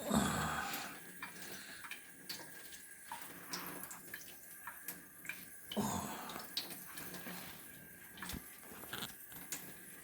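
Cat lapping water at a sink: many small, irregular wet clicks and drips, with water from the tap.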